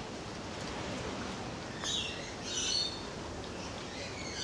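A couple of short, high bird chirps, about two seconds in and again just under a second later, over steady background noise.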